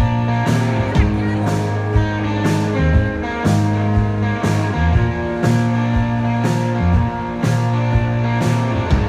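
Live rock band playing an instrumental passage, with guitars over a steady drum beat of about two strokes a second.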